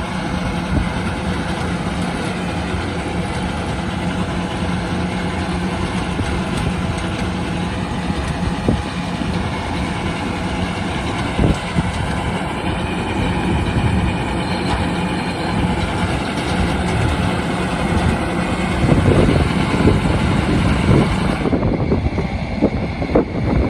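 A tractor running steadily while it drives a new Massey Ferguson 1745 baler making its first bales. The machinery gets louder and rougher in the last few seconds.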